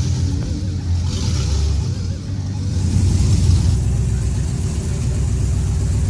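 Diesel pickup truck engine running hard on a chassis dyno, a heavy low rumble that swells about three seconds in.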